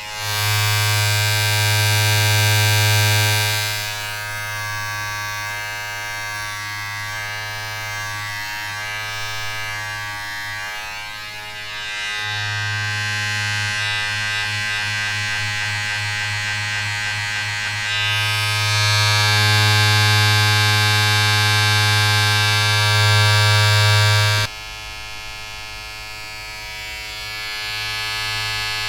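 Steady electric buzz of a small motor, a dense hum with a strong low drone. Its texture and loudness change every several seconds, louder stretches alternating with softer, noisier ones.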